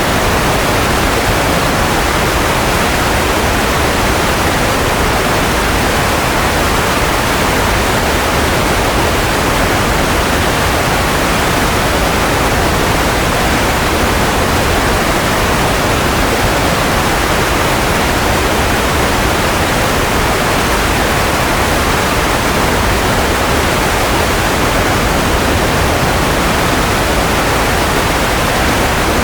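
Steady, unbroken white noise for baby sleep: an even hiss that never changes, fuller in the low and middle range than in the highs.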